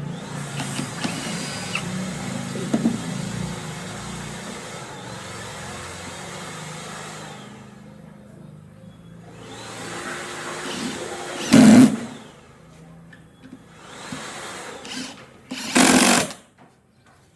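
A handheld power tool running steadily for several seconds, then stopping; it runs up again, with two short loud bursts in the second half.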